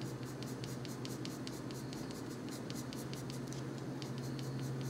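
Colored pencil scratching on paper in short, quick shading strokes, about five or six a second, laying down colour. A steady low hum runs underneath.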